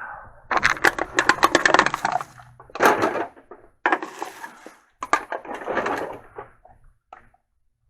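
Small hard objects being rummaged through and handled, clattering and rattling against each other in several bursts with short pauses between.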